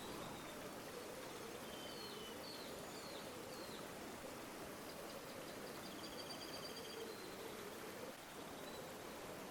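River water flowing steadily, with small birds calling over it: a few short whistled chirps about two seconds in, then a quick trill around six seconds in.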